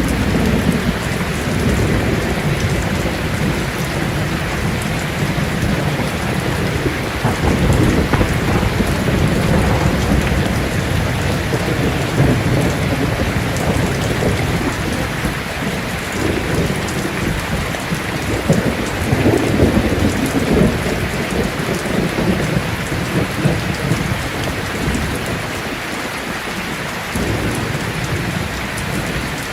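Heavy rain falling steadily, with rolling thunder rumbling low underneath, swelling about a third of the way in and again past the middle.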